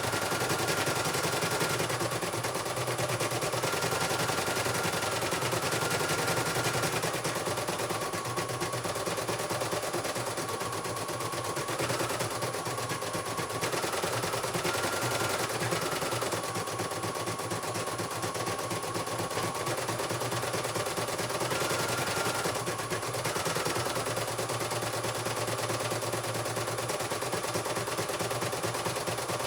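CNY portable computer embroidery machine running a test stitch-out, its needle hammering in rapid, steady strokes. A motor whine steps between two pitches every few seconds as the hoop moves.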